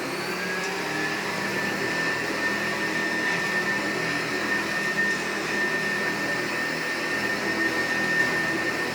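Hoover PowerPlus upright vacuum cleaner running steadily, its high whine climbing a little in the first second as the motor reaches speed and then holding level.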